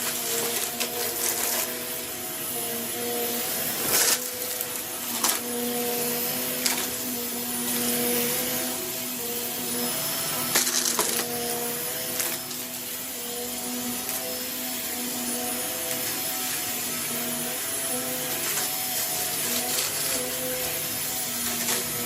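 Vacuum cleaner running steadily, its motor giving a constant hum under a hiss of rushing air, with a few sharp clicks along the way.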